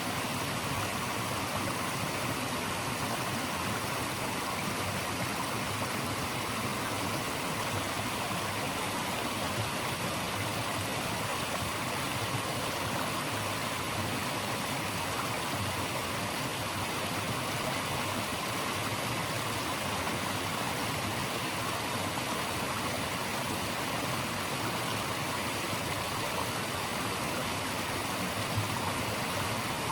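Running water of a stream, rushing in a steady, even hiss with no breaks.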